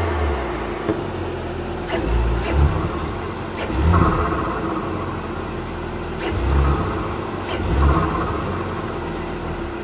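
Audi S5's 3.0T TFSI turbocharged V6 idling and being revved about four times in quick blips, with an Injen SP cold air intake just fitted. Each rev starts with a sharp hiss of intake air.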